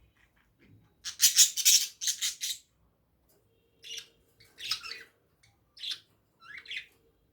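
Birds squawking: a loud burst of harsh, rasping calls about a second in, then shorter squawks roughly once a second.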